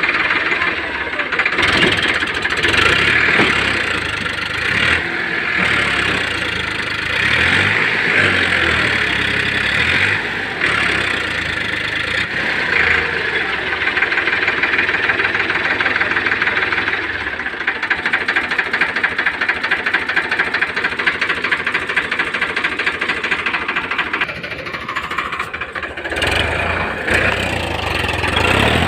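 Farmtrac 60 tractor's diesel engine running with a rapid knocking clatter. Its note shifts a little over halfway through and dips briefly near the end.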